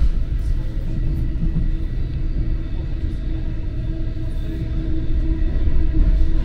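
Steady low rumble of an NJ Transit commuter train in motion, heard from inside the passenger car, with a faint steady hum running under it.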